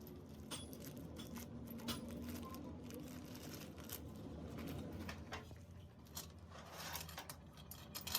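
Irregular light clicks and taps of small metal parts being handled, over a low steady hum.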